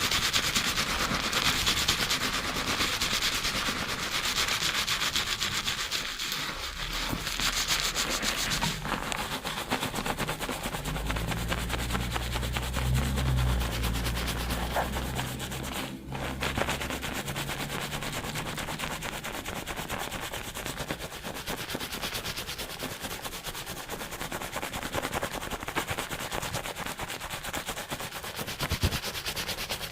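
Fingers rapidly scrubbing a lathered scalp and hair during a fast shampoo: a rapid, continuous rubbing of wet foam, brighter and hissier for the first nine seconds or so, then softer.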